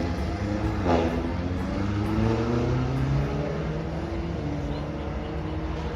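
Racing motorcycle engines running at high revs as bikes pass, one close by about a second in with a quick drop in pitch, then other engines rising and falling in pitch.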